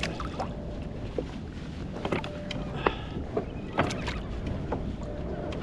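Small knocks and clicks around a kayak as crab gear is hauled up, over steady low wind rumble on the microphone.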